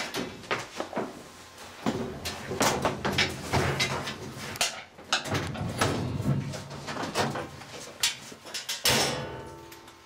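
Irregular knocks, clicks and rattles of tools and parts being handled during a washing machine water pump replacement.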